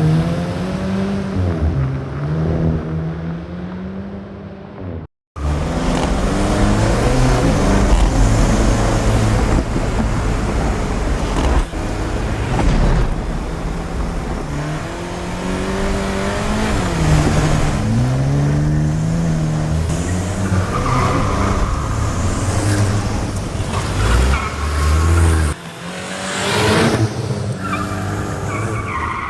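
Volkswagen Golf GTI Edition 50's 2.0-litre turbocharged four-cylinder engine and exhaust under hard acceleration. The revs climb and drop back several times as the gearbox shifts up, with a brief cut about five seconds in.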